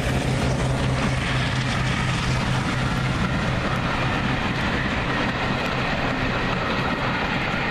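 Passenger train running past: the coaches' wheels rumble on the rails over the steady low drone of a diesel locomotive, most likely Class 42 Warship D832 'Onslaught', a diesel-hydraulic. The engine drone weakens about three seconds in as the locomotive draws away, and the wheel noise carries on.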